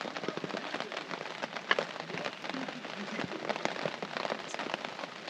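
Rain falling on a camping tarp: a steady wash of rain with many small, sharp drop ticks.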